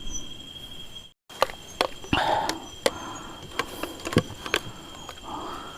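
Steady high trill of crickets at night, with scattered sharp clicks and knocks and two brief rustles. The sound cuts out for a moment about a second in.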